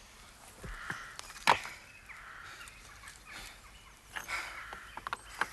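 A single sharp knock about a second and a half in, then several lighter clicks and knocks near the end.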